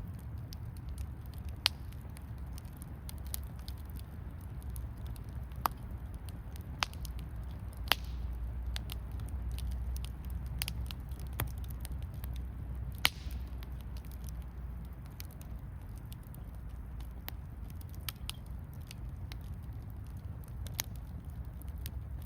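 Wood campfire crackling, with irregular sharp pops and snaps; the loudest come about one and a half, eight and thirteen seconds in. A low steady rush runs underneath.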